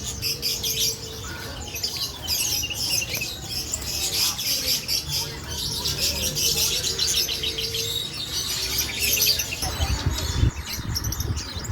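Many small caged songbirds chirping and twittering at once, a dense overlapping chorus of high calls. A low rumble joins in near the end.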